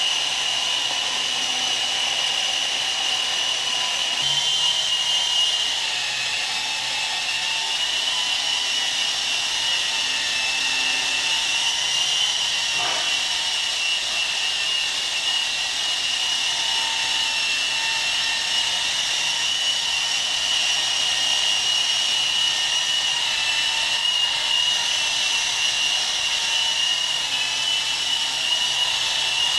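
Small DC motor spinning a toy helicopter's propeller: a steady high-pitched whine that drifts slightly up and down in pitch, with one short tick about halfway through.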